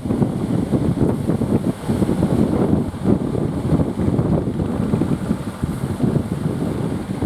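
Strong wind buffeting the microphone in a steady, gusting rumble, with surf beneath it.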